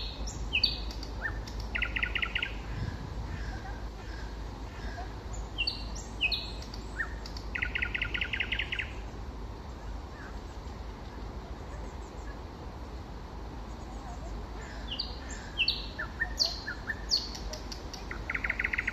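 Nightingale singing: three phrases several seconds apart, each a few quick, sharp high notes leading into a fast rattling trill about a second long.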